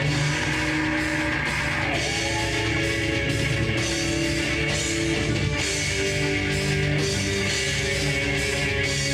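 Live rock band playing loud heavy music: electric guitars holding sustained notes over a steady drum kit beat.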